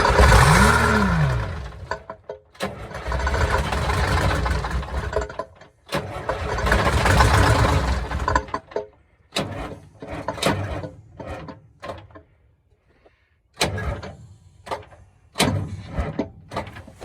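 The diesel engine of a 1971 Insley excavator being cranked by its starter in three bursts of about two and a half seconds each, without catching. Scattered clicks and knocks follow in the second half.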